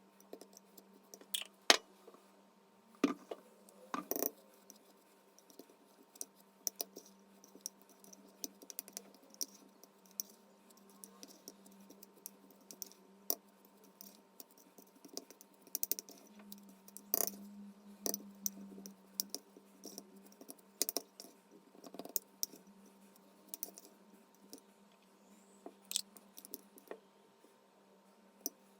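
Scattered light clicks and taps of utensils and containers being handled, irregular and a little louder in the first few seconds, over a faint steady hum.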